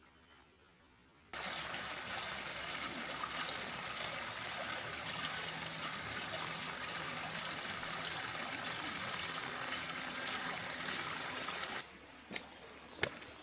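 Water trickling and splashing steadily. It starts abruptly about a second in and cuts off suddenly near the end, followed by a few faint clicks.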